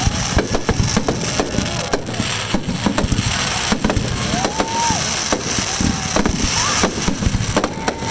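Fireworks crackling and popping in rapid, dense succession, many sharp cracks close together, with a few short tones that rise and fall in pitch.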